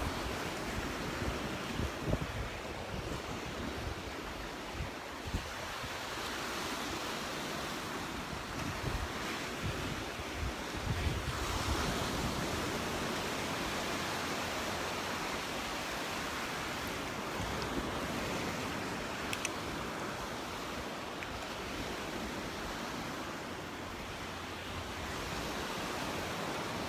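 Surf breaking and washing on a sandy Gulf beach, with gusts of wind buffeting the microphone.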